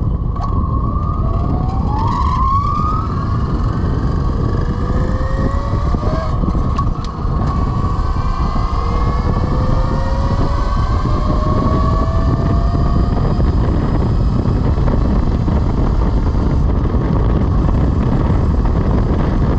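Velimotors VMX12-F electric motorcycle under way: its motor whine rises in pitch three times as it accelerates, the longest rise near the middle. Underneath runs a steady, heavy rush of wind and road noise.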